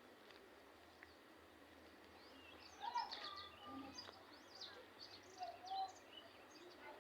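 Birds chirping and calling, a flurry of short, quick chirps starting about two and a half seconds in over a faint background hiss.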